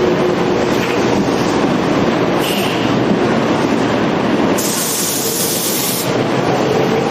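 Tokyo Metro 5000-series commuter train running on the rails, a steady loud rumble with faint droning tones, and a brief hiss about four and a half seconds in that lasts over a second.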